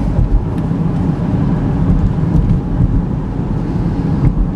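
Inside the cabin of a 2013 Chevy Equinox, its 3.6-litre V6 pulling under harder throttle toward highway speed: a steady low rumble of engine and road noise.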